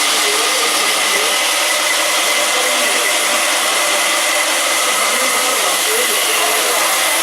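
Stone-working machinery for fossil-stone slabs running steadily, a loud even hiss with a constant high whine.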